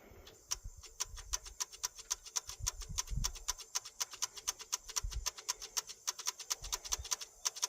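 Rapid, evenly spaced clicking, about six or seven clicks a second, from an electrical part on the 1985 Ford F250's 6.9 IDI diesel, the part said to make it do clicky things. A few dull thumps sound under it.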